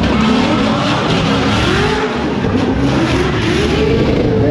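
Burnout car's engine revving hard, the revs swinging up and down in repeated swells, over a steady hiss of spinning tyres.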